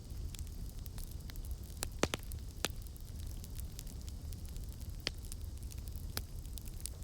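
Campfire burning with a low steady rumble and constant small crackles, with a few sharper pops of the burning wood, the loudest about two seconds in.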